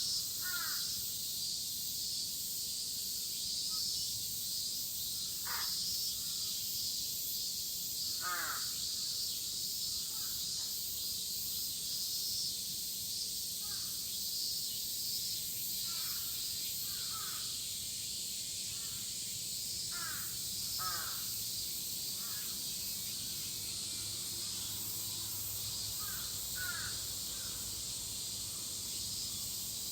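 A dense chorus of cicadas makes a steady high-pitched shrill throughout. Crows caw over it every few seconds, sometimes twice in quick succession.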